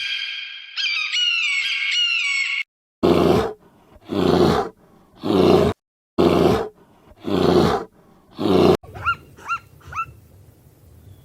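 Animal calls in three parts: a pitched, wavering call with falling glides, then six loud rasping roars about one a second, then a few short, falling chirps near the end.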